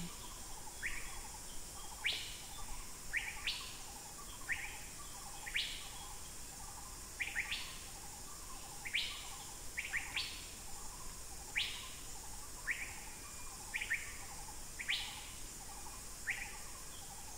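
A forest bird repeating short, sharp call notes, each falling steeply in pitch, about one a second, over a steady high hiss.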